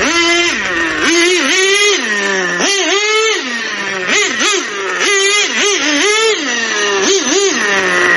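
Traxxas Jato nitro RC car's modified TRX 2.5 engine (3.3 crank, OS carb, carbon fibre pipe) revving up and dropping back a dozen or so times in quick bursts as the throttle is worked. The driver judges it still a bit lean.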